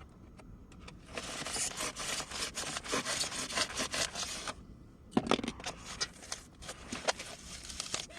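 Hand blade cutting and scraping away rigid foam insulation from a water heater tank in quick rasping strokes. The strokes start about a second in, pause briefly near the middle, then go on.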